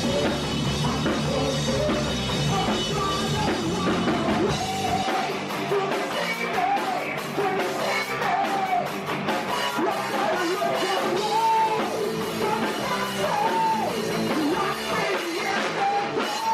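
Rock band playing a song with a lead vocal over drums and guitar; the bass and low drums drop away about four and a half seconds in while the singing continues.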